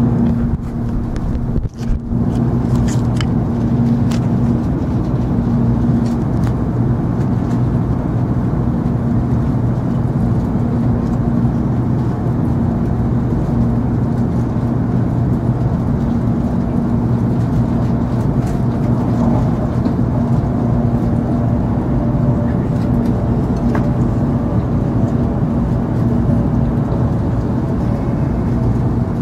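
Steady cabin noise of an N700 series Shinkansen running at speed, heard from inside a passenger car: a constant rumble with a low steady hum. The sound dips briefly about two seconds in, and a faint higher tone comes in during the second half.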